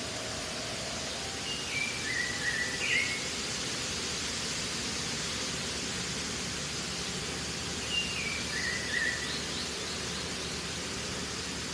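A steady hiss throughout, with two short bird calls of a few descending steps each, about a second and a half in and again about eight seconds in.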